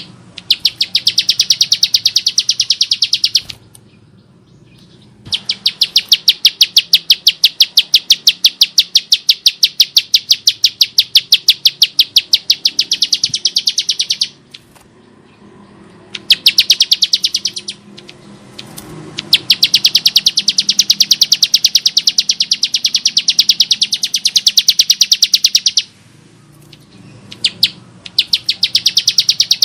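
Bar-winged prinia (ciblek sawah) singing a harsh, rapid trill of evenly repeated sharp notes. It comes in five bouts of about 2 to 9 seconds each, with short pauses between them.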